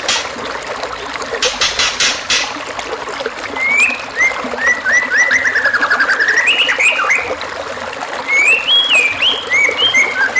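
Songbird singing over a steady trickle of running water: a brief run of harsh rasping clicks in the first few seconds, then fast trills of short repeated notes that dip and rise, and choppy stepped phrases near the end, as in a murai batu masteran track.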